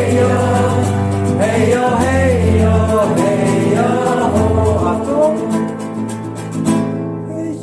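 Singing with acoustic guitar accompaniment: sung notes that bend up and down over the strummed chords, growing quieter for the last couple of seconds.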